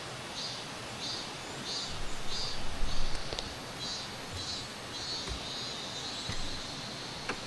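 A cicada calling in high pulses about twice a second that run together into a steady buzz, over the steady rush of a mountain stream.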